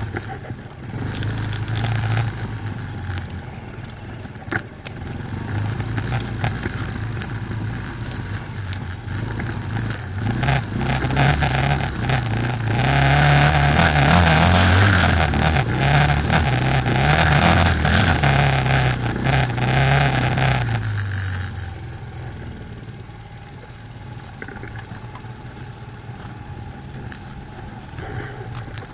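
A 200cc quad bike engine running and revving up and down under load, with frequent knocks and rattles. It pulls hardest in the middle, then settles to a quieter, steadier run about two-thirds of the way in.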